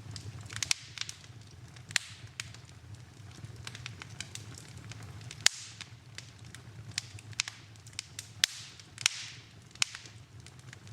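Wood fire burning in a fireplace: irregular sharp crackles and pops, with a few brief hisses, over a low steady rumble. The loudest pop comes about halfway through.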